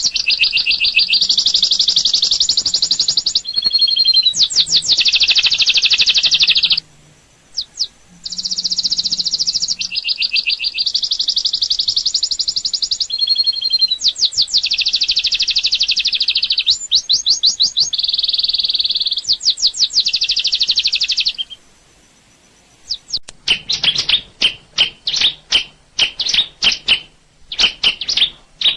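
Songbird singing loud, high, rapid trilled phrases that repeat in near-identical sequences, broken by short pauses. About 23 seconds in, the song changes to a run of quick, separate chirps.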